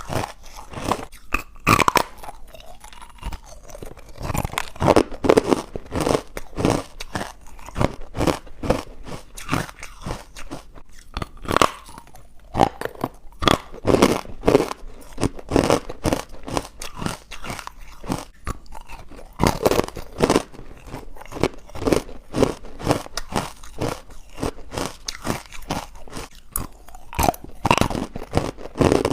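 Someone chewing chalky, powdery white ice bites made from carbonated water, crunching them between the teeth in a steady run of sharp, irregular crackles several times a second.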